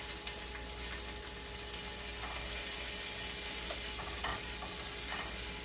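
Halved Italian sausage sizzling steadily in a frying pan, with a few short scraping or squeaking sounds from a utensil working it in the pan in the second half.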